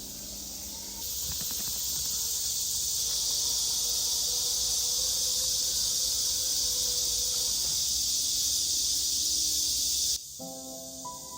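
Steady, high-pitched hissing drone of insects outdoors, growing louder about a second in. It cuts off suddenly near the end, when music comes in.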